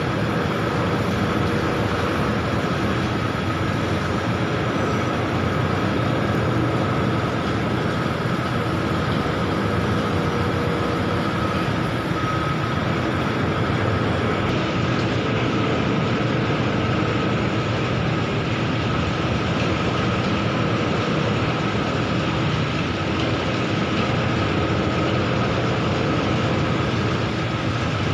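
Bucket-wheel stacker-reclaimer running steadily: a constant mechanical rumble with a thin steady whine over it.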